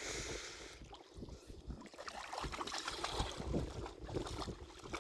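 Wind on the microphone over water sloshing and lapping, an even hiss with uneven low rumbling.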